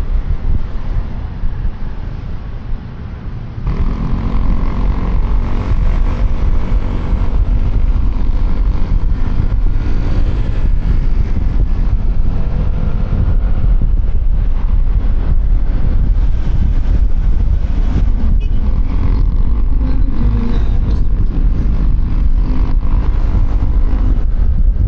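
Road noise from a QJMotor Fortress 160 scooter on the move, heard through a helmet-mounted microphone: constant wind rumble, the scooter's engine and surrounding traffic. The level dips briefly, then about four seconds in it rises again and the engine note comes through more clearly.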